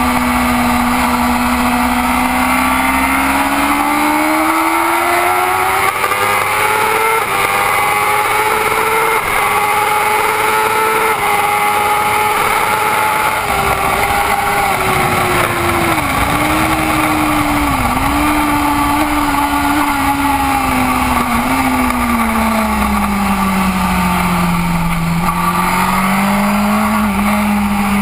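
BMW racing motorcycle engine heard from on board at race pace: the revs climb to a long high note on the straight, dip sharply twice a little past halfway as it slows, sink lowest through a corner and climb again near the end. Wind rush runs under the engine throughout.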